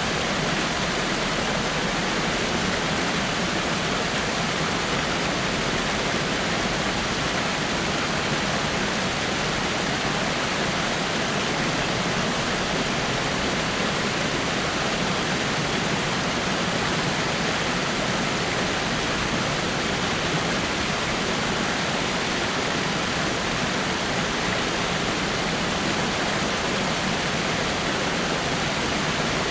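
Water falling over rocks in a small waterfall: a steady, even rush of splashing water.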